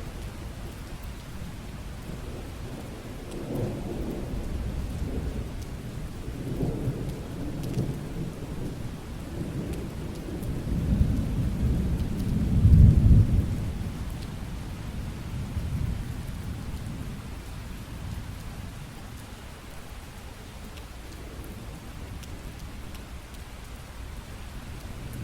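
Steady rain with a long roll of thunder that builds from about three seconds in, rumbles loudest a little past the middle, and dies away.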